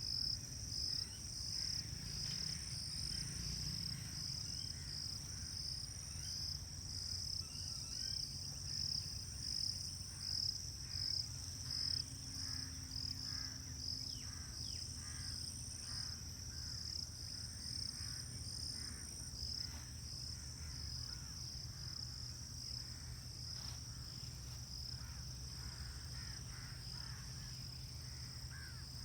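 Insects chirping in a steady chorus: a high, fast-pulsing trill that never stops. Faint short bird calls sound now and then, over a low rumble.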